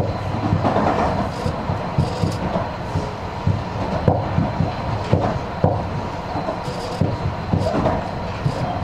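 Running sound of a Tobu 50000 series electric commuter train heard from inside the car. A steady rumble is broken by frequent irregular clicks and knocks from the wheels on the track.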